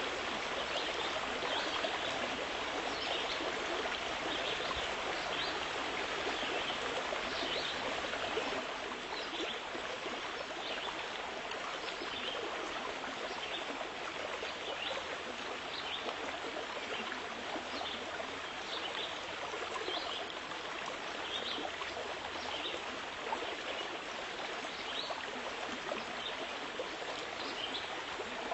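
Steady rushing of flowing water, with short high chirps scattered through it about once a second.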